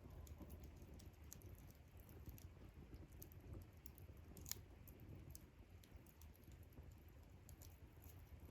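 Faint crackling of a wood campfire: scattered small irregular pops and ticks, with one sharper pop about four and a half seconds in.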